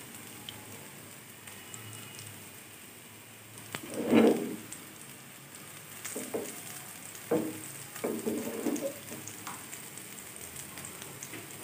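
Beef shami kababs shallow-frying in hot oil in a pan over a low-to-medium flame, sizzling steadily. A few brief louder sounds break in, the loudest about four seconds in.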